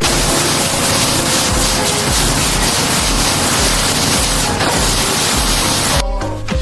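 Loud, steady spraying hiss, as of compressed air or a sprayer at work on the car, over background music with a beat; the hiss cuts off suddenly about six seconds in, leaving the music.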